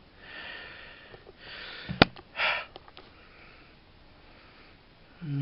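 A man breathing and sniffing close to the microphone. About two seconds in there is one sharp click, followed by a few fainter clicks, and near the end a short low hum.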